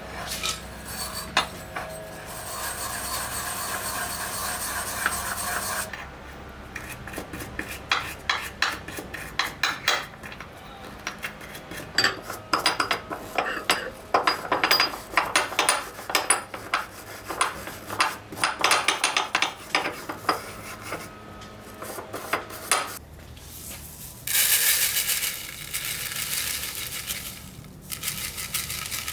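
Metal vise parts being scrubbed and handled: many irregular scraping strokes and clinks of metal, with stretches of steady hiss near the start and near the end.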